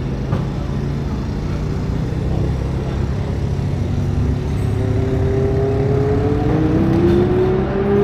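Historic racing car engine running, steadily getting louder, its note climbing in pitch over the second half as it accelerates.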